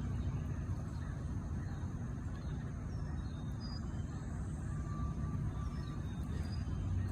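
A steady low engine hum, like an idling vehicle, with a few faint high chirps over it.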